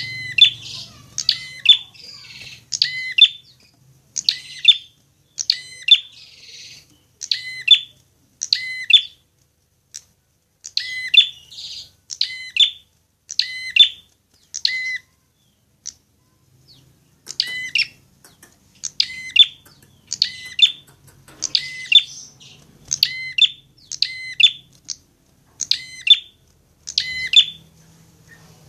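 Prinia (prenjak) calling: sharp, metallic chirps repeated in quick clusters about once a second, with a short pause about halfway through.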